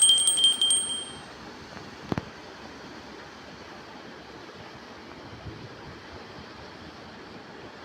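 A quick run of rapid metallic clinks with a high ringing tone, lasting about a second, then a steady rushing background noise.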